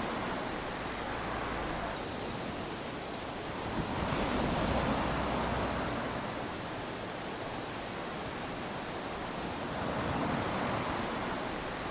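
Small waves lapping onto a sandy shore, a steady wash that swells about four seconds in and again near the end.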